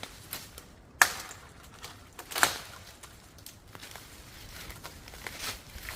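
Dry pine firewood being broken and handled: two sharp cracks, about a second and two and a half seconds in, with lighter snaps and rustling between.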